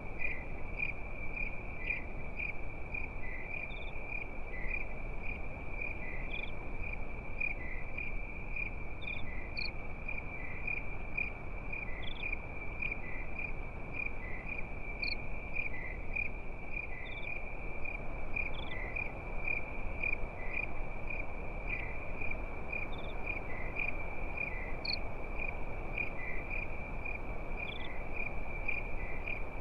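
Crickets chirping at night: one continuous high-pitched trill, with a second cricket chirping at about one a second and scattered higher chirps from others. A steady soft hiss runs underneath.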